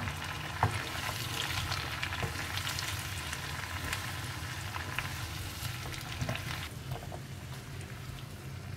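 Chicken with chopped onion, garlic, capsicum and tomatoes sizzling and crackling in hot oil in a pan as they are sautéed, with a couple of sharper clicks from the stirring spoon; the sizzle eases about two-thirds of the way through.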